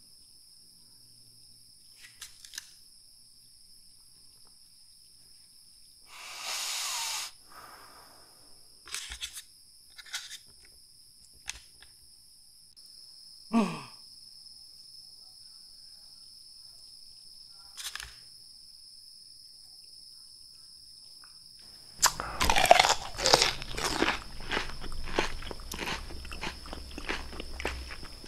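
Crisp crunching of a raw red bell pepper being bitten and chewed close to the microphone. There are a few scattered small clicks and a short rustling burst at first, then dense, continuous crunching from about three quarters of the way in.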